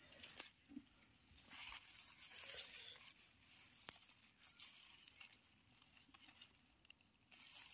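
Faint rustling and crunching of dry forest-floor leaf litter, with a few small sharp snaps, as someone searches through it by hand and foot.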